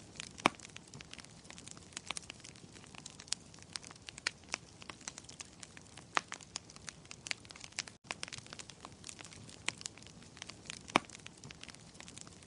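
Wood fire crackling in a fireplace: irregular sharp pops and snaps over a soft hiss, with a momentary break about eight seconds in.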